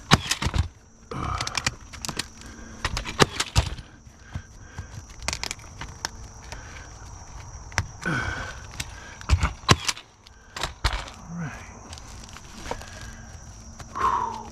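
Irregular hammer knocks, now single blows, now quick runs of several strikes, from nailing during a roof repair, with short pauses between and a few low mutters.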